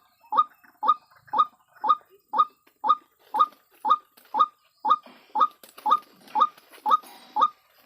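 White-breasted waterhen calling 'ruak ruak', the same short call repeated steadily about twice a second. A faint rustling hiss runs under the calls in the second half.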